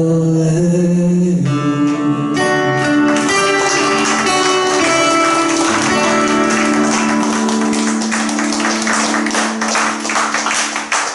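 Closing bars of a Korean folk song on acoustic guitar: a long held note gives way to picked guitar notes that build into dense strumming toward the end.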